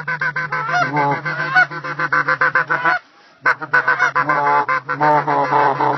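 A flock of geese honking, many overlapping calls at once. It breaks off into near silence for about half a second around three seconds in, then resumes just as dense.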